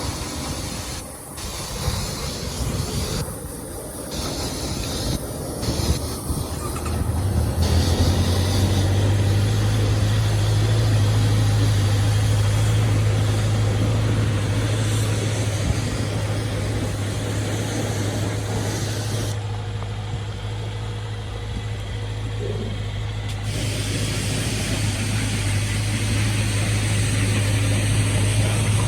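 2015 Honda CBR650F's inline-four engine running steadily, a constant low hum that settles in after several seconds of uneven noise.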